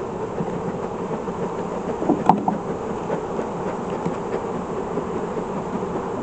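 Honeybees humming steadily around an open hive, with one sharp click about two seconds in.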